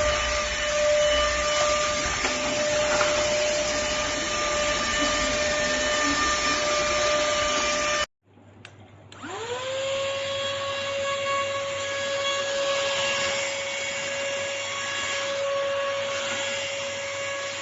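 Cordless handheld vacuum cleaner motor running with a steady whine. It cuts off abruptly about eight seconds in, then starts up again about a second later, its whine rising quickly to a steady pitch.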